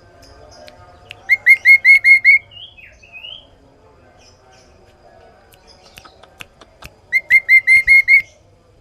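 Kaso-kaso bird singing loudly and clearly: two bright phrases, each a rapid run of about seven repeated whistled notes, one about a second in and one near the end, with a few softer chirps between.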